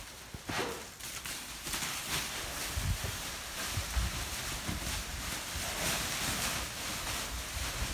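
Wind rustling over the microphone in a snowstorm, with a few scattered low thumps and soft crunching noises.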